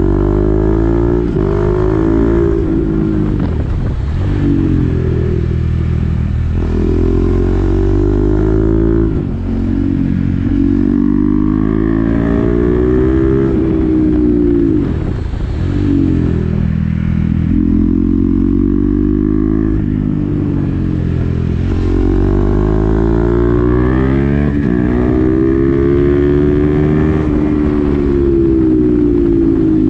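KTM Duke 390's single-cylinder engine through an SC-Project exhaust with the dB killer fitted, ridden hard. The engine note climbs and drops back again and again as the bike accelerates and eases off, with brief dips between pulls.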